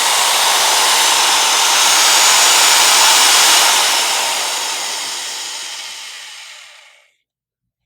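Power drill running, a loud, dense, hissing whir that fades over its last few seconds and stops about seven seconds in.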